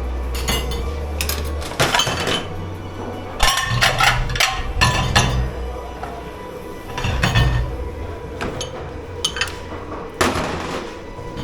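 Plates, pans and cutlery clattering and clinking as dishes are handled, in clusters of sharp knocks over a steady low hum.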